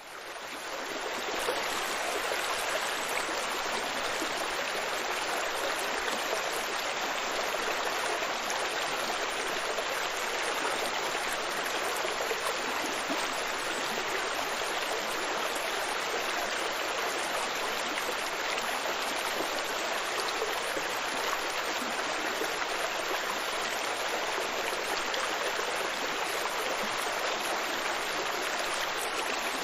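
Running water of a stream, a steady, even rush that fades in over the first second or two.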